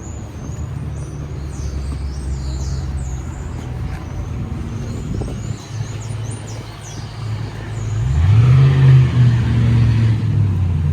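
Street traffic: the low, steady hum of motor vehicle engines, with one engine revving up and getting louder about eight seconds in, as a nearby vehicle accelerates. Faint high chirps sound in the first few seconds.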